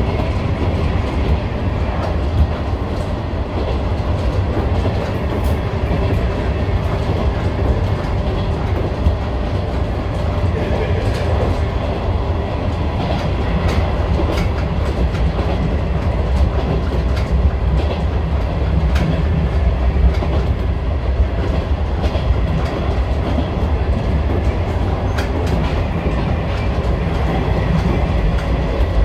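Electric train running along the line, heard from inside the front car: a steady low rumble with wheels clicking over the rail joints.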